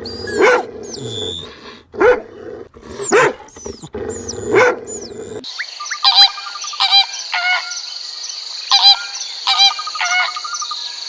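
Animal calls. For about five seconds, loud honking calls repeat roughly once a second, each falling in pitch. Then the sound switches abruptly to shorter, higher calls and a fast trill over a steady high hum.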